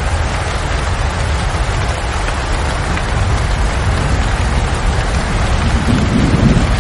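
Steady heavy rain falling, with a constant low rumble underneath; a deeper rumble swells near the end.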